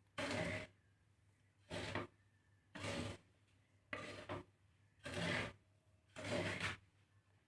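A spatula scraping through a mix of millets and black glutinous rice being dry-roasted in a pan: six short scraping strokes about a second apart.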